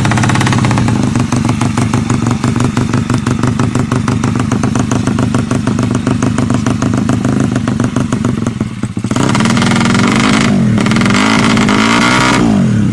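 Tuned drag-racing motorcycle engine running loud and steady at high revs with a fast, even rattle of firing pulses. About nine seconds in it is revved up and down over and over.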